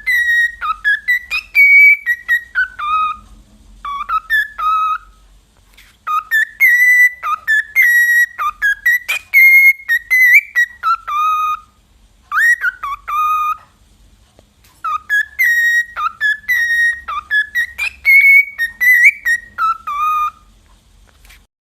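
A parrot whistling a tune: a melodic phrase of short whistled notes, repeated in three runs with brief pauses between them.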